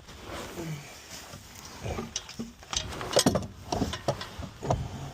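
Metal clunks and knocks as a heavy starter motor is worked up into position against the engine, about four sharp knocks in the second half, with grunts of effort.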